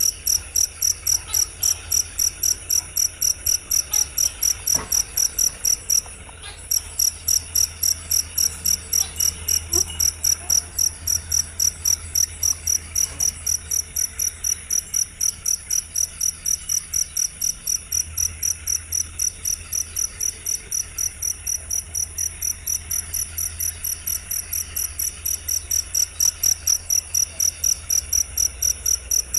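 Cricket chirping in a steady, even rhythm of about three to four high, clear chirps a second, with one short break about six seconds in.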